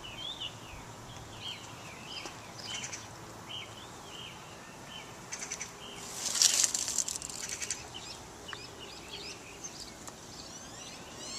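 Small birds chirping in short repeated notes over a steady outdoor hiss, with a loud brief rustling burst about six seconds in.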